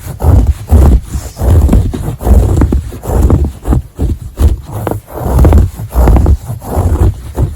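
Scratching on a textile surface such as fabric or carpet, in rhythmic strokes about two a second.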